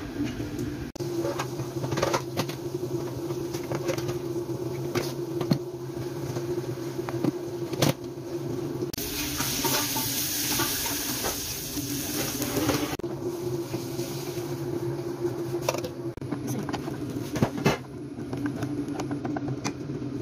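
Chopped onion frying in hot oil in an aluminium pot, stirred with a wooden spatula that knocks against the pot. A much louder sizzle lasts several seconds near the middle, over a steady low hum.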